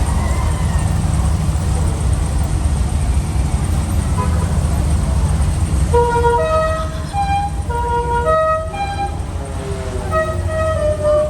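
A car's engine rumbles steadily, and from about four seconds in a musical car horn plays a tune of short notes stepping up and down in pitch.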